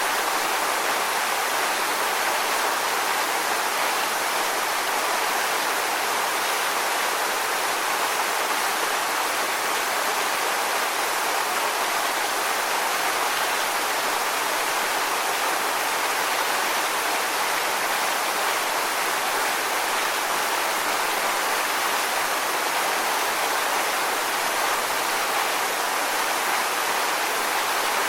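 Steady rushing water, an even unbroken wash with no swells or pauses.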